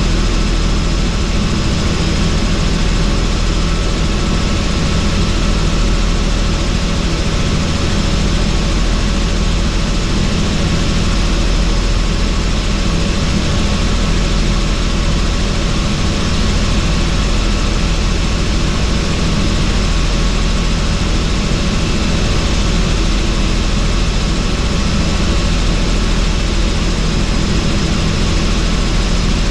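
Helicopter in steady cruise flight with the doors off: constant rotor and engine noise with thin steady whines over it and a rush of air through the open cabin.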